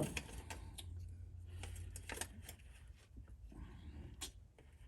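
Faint, scattered light clicks and small rattles of parts and tools being handled, over a low steady hum.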